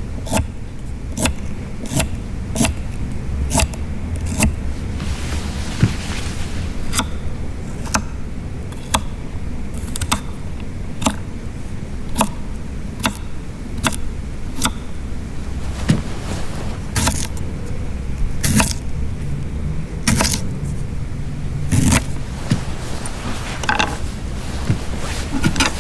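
Fire crackling: sharp pops and snaps, about one or two a second at irregular intervals, over a steady low rumble.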